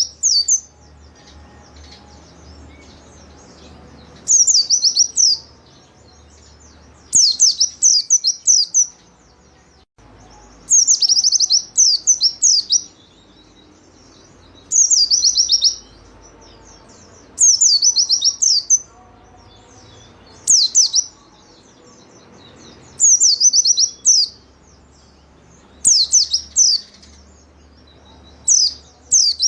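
Pleci (white-eye, Zosterops) singing: short, high, twittering phrases of rapid notes, repeated every two to three seconds.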